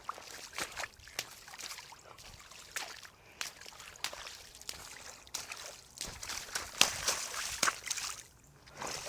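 Feet splashing and sloshing in a shallow mud puddle: a run of irregular splashes, loudest about seven seconds in.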